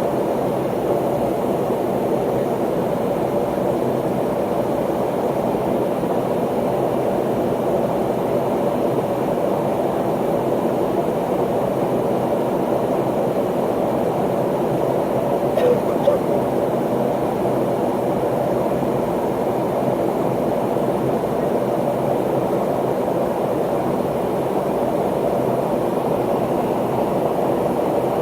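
Steady cabin noise inside a McDonnell Douglas MD-83 airliner: an even rushing drone of airflow and its rear-mounted jet engines, with one brief click about halfway through.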